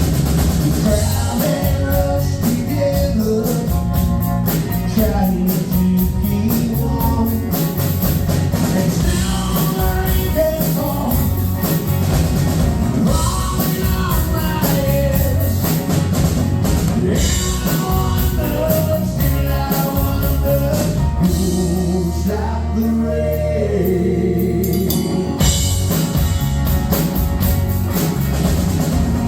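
Rock band playing live: singing over guitars and a drum kit at a steady mid tempo.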